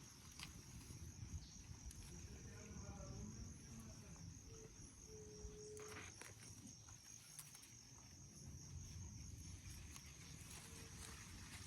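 Faint, steady high-pitched trilling of crickets, unbroken throughout.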